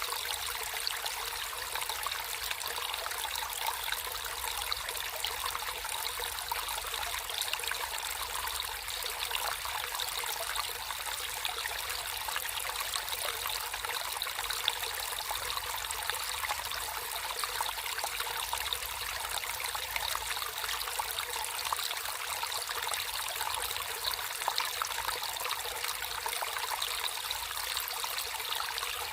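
Natural flowing water trickling steadily in a small stream, an even rushing sound with fine droplet-like detail and no pauses.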